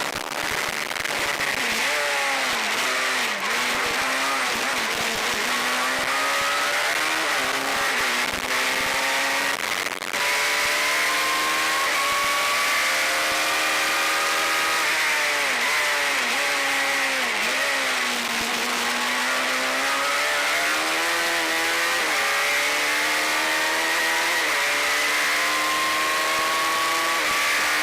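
Suzuki Hayabusa inline-four motorcycle engine in a single-seater race car at full throttle. Its pitch climbs through the gears and drops sharply at each shift. There are runs of quick downshifts for braking about three seconds in and again around sixteen seconds in, then a long climb with one upshift near the end.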